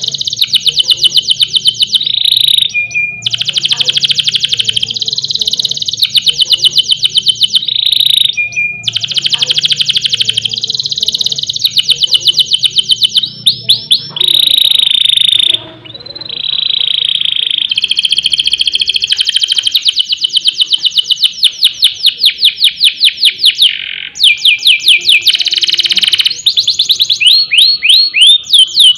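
Domestic canary singing loud, long rolling trills of rapidly repeated notes, with sustained whistled tones and sharp rising sweeps between the rolls.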